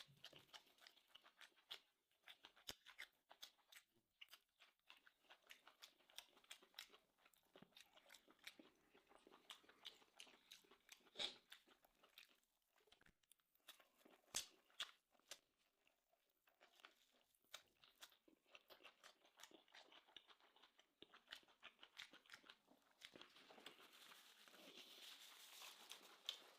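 Faint close-up chewing and biting: soft crunches and wet mouth clicks of someone eating corn on the cob, with a couple of sharper bites about eleven and fourteen seconds in.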